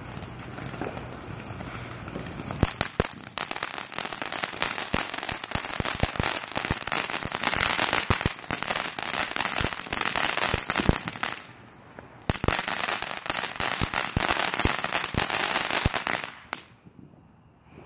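Consumer fireworks going off as a dense, rapid crackle of pops that starts a couple of seconds in, breaks off briefly about two-thirds of the way through, then resumes and stops near the end.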